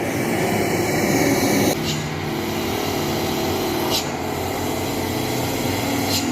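Dump truck's diesel engine running steadily, its pitch shifting about two seconds in, with a few faint clicks.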